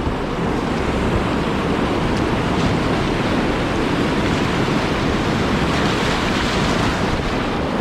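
Whitewater river rapid rushing steadily, a loud, even wash of churning current.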